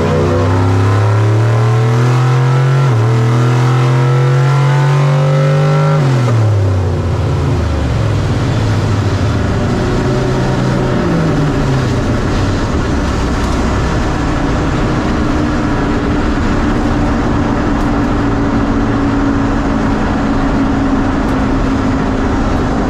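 Nitrous-fed, LS-based small-block V8 drag car making a pass at full throttle: the engine revs climb, dip at a gear change about 3 s in, climb again, then drop as it lifts off about 6 s in. After that it runs down with a steady rumble of engine and wind noise.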